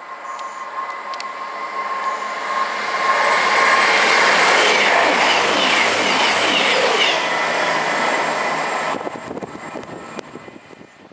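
Virgin Voyager diesel multiple unit passing at speed: the rush of its wheels on the rails and its underfloor diesel engines build over the first few seconds, stay loud, then fall away quickly after about nine seconds as the train goes by.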